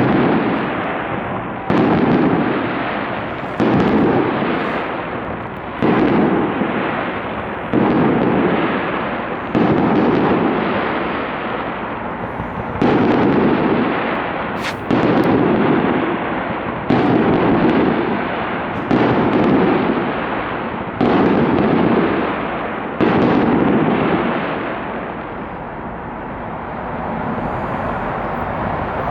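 Fireworks display: aerial shells bursting with a loud boom about every two seconds, each boom trailing off in a long rumble. The booms ease off in the last few seconds.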